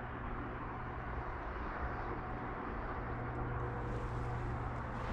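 Steady outdoor background noise: an even low rumble and hiss with a constant low hum underneath, no distinct events.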